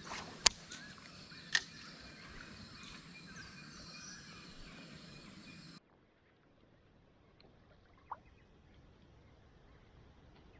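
Birds chirping over a creek's background noise, with two sharp knocks about half a second and a second and a half in. Just before the middle the sound cuts off suddenly to a much quieter background, with a single faint bird chirp later.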